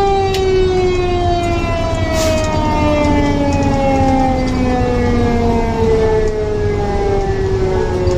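Fire engine's mechanical siren winding down, its pitch falling slowly and steadily, over the truck's low engine and road rumble.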